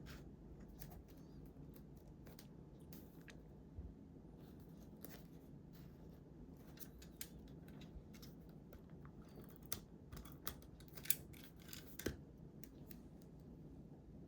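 Scissors cutting paper: scattered small snips and crisp paper clicks, coming thicker and louder in the last third.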